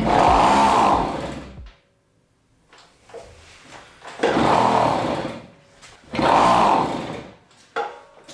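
Small moped engine revved in three short throttle blips, each rising and falling in pitch over about a second, with a lower idle-level sound in the gaps.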